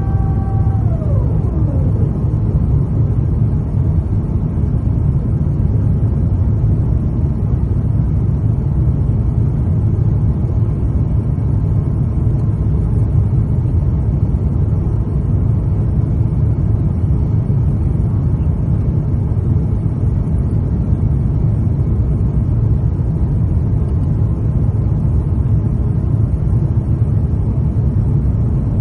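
Steady low cabin rumble of an Airbus A350-900 on approach, with its Rolls-Royce Trent XWB engines running. About a second in, a few steady engine tones slide down in pitch together and fade, as thrust is reduced.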